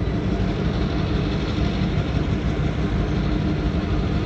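Diesel locomotives of a freight train running with a steady low rumble and a faint steady hum.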